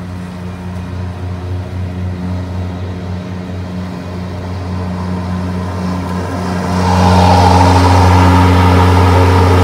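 EGO 56-volt Select Cut battery lawn mower running, with the steady electric hum of its motor and spinning blades. About seven seconds in it grows louder and a rushing hiss joins the hum as it cuts grass and throws clippings out the side chute.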